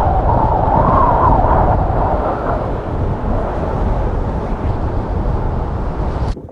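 Strong gale-force wind of around 40 mph blowing hard over the microphone: a loud, steady rushing noise that swells in the first couple of seconds. It cuts off suddenly near the end.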